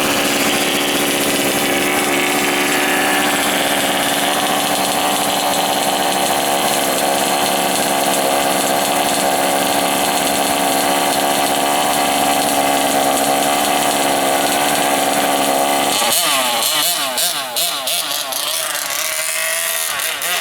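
Monster truck engine running steadily at idle, then revved up and down repeatedly in the last few seconds.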